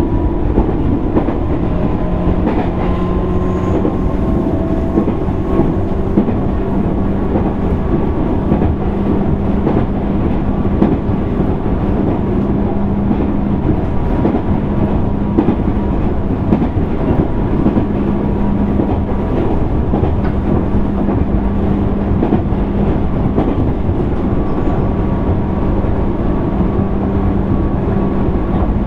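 Running noise heard inside a JR East 205 series 600-subseries electric train's motor car (MoHa 204-604) at steady speed: wheels rumbling and clattering on the rails under a steady low hum.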